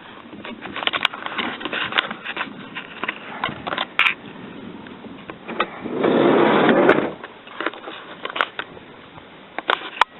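Handling noise from a handheld camera: scattered clicks, knocks and rubbing, with a louder rustle about six seconds in.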